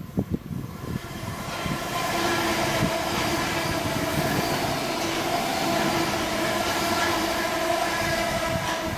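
Gatwick Express electric train passing through the station at speed without stopping. A few low thumps at the start give way, about a second and a half in, to a steady loud rush of the train running past, with a humming whine held through it.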